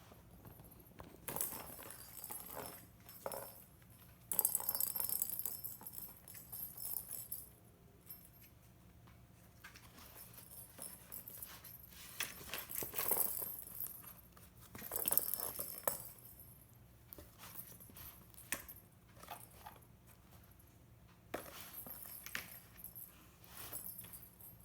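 A cat toy jingling and rattling in irregular bursts as cats bat at it, with quieter gaps between the bursts. The longest burst comes about four seconds in.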